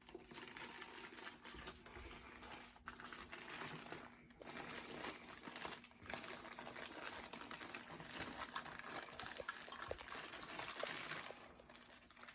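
Plastic packaging crinkling and rustling with many small crackles as a boxed model locomotive is unwrapped by hand.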